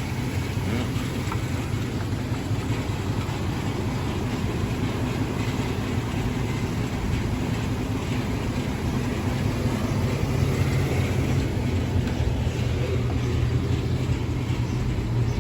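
Chevrolet Tahoe engine idling with a steady low hum, running while its A/C is switched on and tested.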